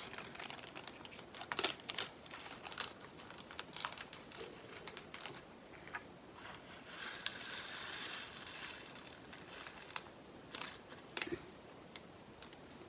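Small plastic bags of diamond-painting drills crinkling as they are handled, with scattered light clicks, and a longer, denser rustle about seven seconds in.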